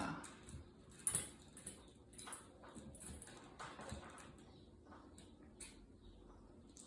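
Faint, scattered small clicks and taps at an irregular pace, the sharpest about a second in.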